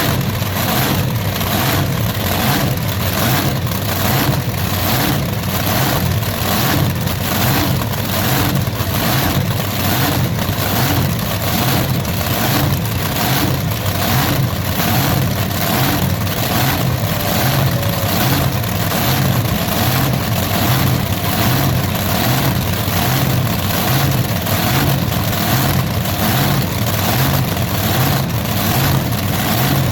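Pulling tractor's engine running steadily and loud, with an even pulsing about twice a second.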